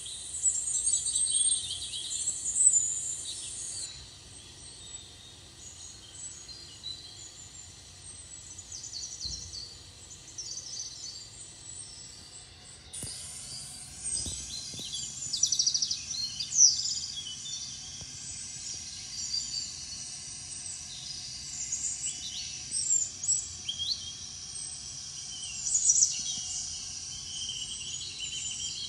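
Birds chirping and singing: many short, high calls over a faint steady hiss. The background shifts abruptly twice, about four and thirteen seconds in.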